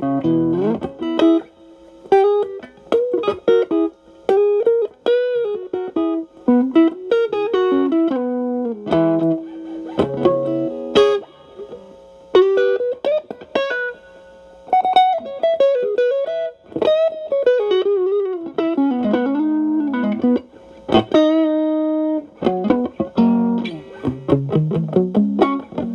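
Electric guitar, a Stratocaster, played through an Xotic AC Plus overdrive pedal into a Marshall Valvestate amp, with the drive cleaned up. It plays single-note blues lead phrases with string bends and short pauses between phrases.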